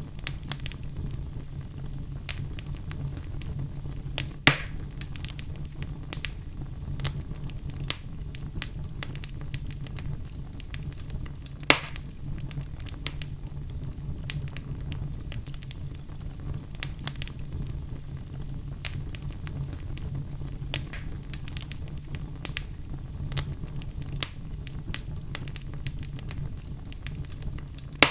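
Wood fire of burning logs in a fireplace crackling, with a steady low rumble of the flames under frequent irregular snaps and two louder pops, one about four seconds in and one near the middle.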